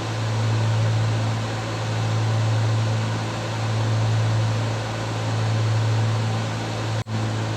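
Cessna 310's twin piston engines and propellers droning steadily inside the cockpit, a low hum that swells and fades slowly every couple of seconds. A short click with a momentary dropout near the end.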